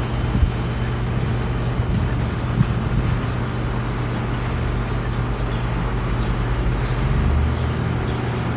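Strong storm wind blowing against the microphone, a steady rushing noise over a constant low hum.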